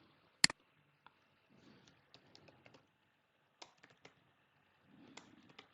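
Typing on a computer keyboard: scattered key clicks in short runs, with one louder sharp click about half a second in.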